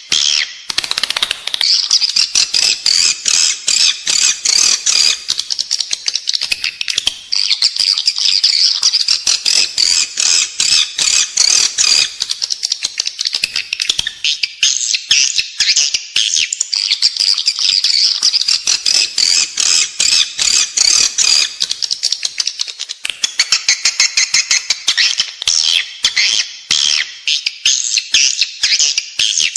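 Edible-nest swiftlet calls: a dense, unbroken mass of rapid high-pitched chirps and twitters. This is the 'inside the building' lure call that is played inside swiftlet houses to draw the birds in to roost and nest.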